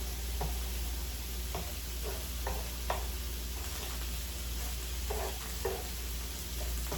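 Egg and onions sizzling on a flat-top griddle in a steady hiss, with half a dozen short scrapes or taps on the cooking surface spread unevenly through it.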